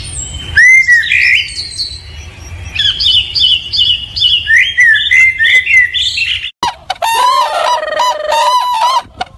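Songbirds singing: a run of varied chirps and whistled phrases. About six and a half seconds in, it changes abruptly to a lower, harsher bird call.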